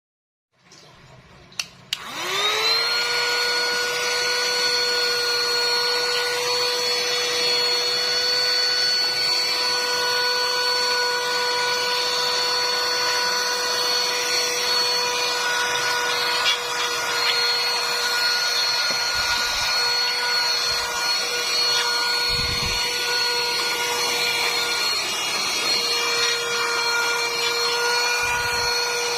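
Cordless mini handheld vacuum cleaner switched on with a click, its motor spinning up with a rising whine and then running steadily with a constant whine and airflow hiss.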